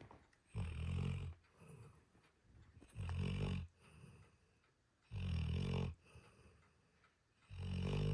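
A sleeping dog snoring: four low snores, each lasting under a second, about two and a half seconds apart, with faint breathing between them.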